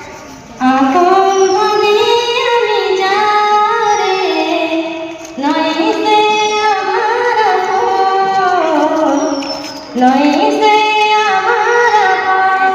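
Wordless sung melody opening a Bangla ghazal: a single voice holding long, ornamented notes that glide and waver, in three long phrases.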